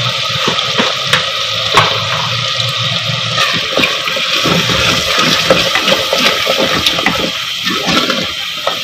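Spice masala sizzling and bubbling hard in hot oil and water in a clay handi, while a spatula stirs it, scraping and knocking many times against the pot.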